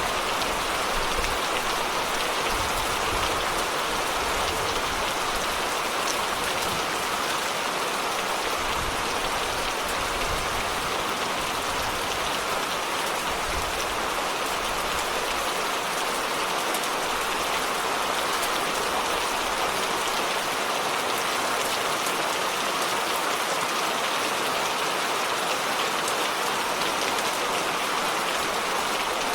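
Steady rain falling: an even, unbroken hiss with faint fine ticks of drops.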